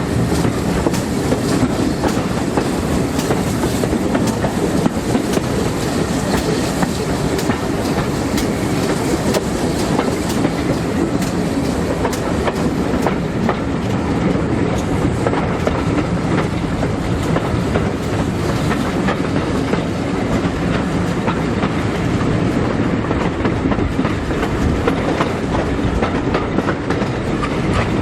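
Steam-hauled passenger train running along the line, heard as the steady rumble of a railway carriage, with its wheels clicking over the rail joints.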